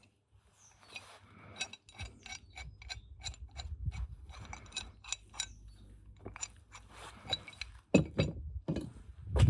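Metal tools and car parts clinking and clicking in quick, uneven taps, with two heavier knocks near the end.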